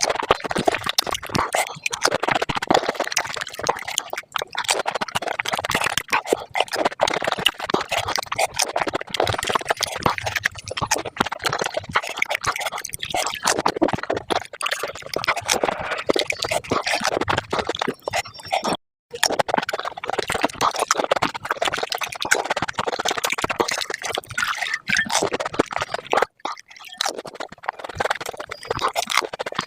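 Sped-up eating sounds of panipuri: rapid crunching of the hollow fried puri shells and wet slurping of the spiced water, dense and continuous, broken by a short silence a little past halfway.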